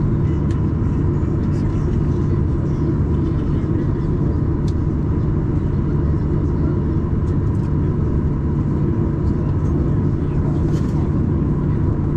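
Steady, loud cabin noise inside a Boeing 737-800 airliner: a deep, even roar from its CFM56 engines and airflow, with a faint steady tone above it.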